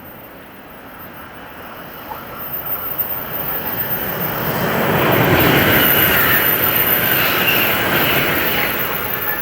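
Shinkansen train passing at speed on the main line: a rushing roar that builds to its loudest about five seconds in, then slowly fades.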